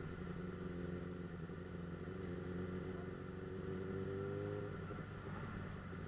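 Suzuki GSF 600 Bandit S inline-four engine running at a steady cruise. Its pitch rises a little about four seconds in and drops back a second later.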